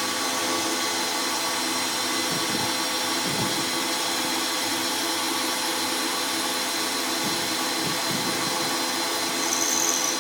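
A powered shop machine's motor running steadily, with a constant mechanical whine.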